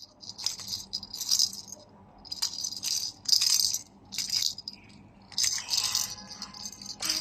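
A series of short, high-pitched hissy rattling bursts, about ten of them, irregularly spaced.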